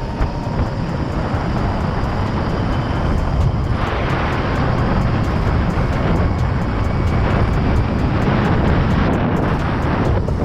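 Steady wind rush over the microphone, with road noise, while riding a 72-volt Razor MX650 electric dirt bike at speed.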